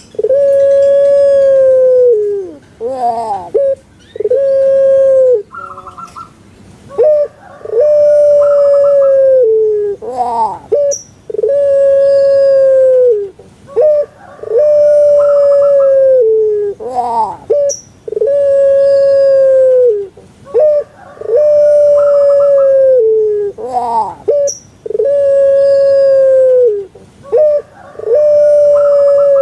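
Puter pelung, a long-voiced Javanese strain of the domestic dove, cooing over and over. Each call is a few quick rising-and-falling notes followed by one long held note that dips at the end, repeated about every three and a half seconds.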